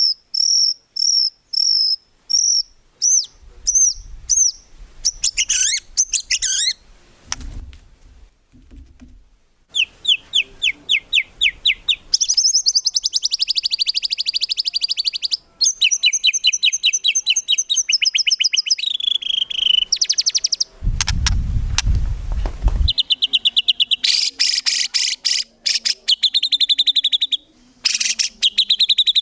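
White-rumped shama (murai batu) singing a long, varied song. It opens with a series of repeated clear whistles, then moves into fast rattling trills and rapid strings of notes, with short pauses between phrases. A brief low rumble comes about three quarters of the way through.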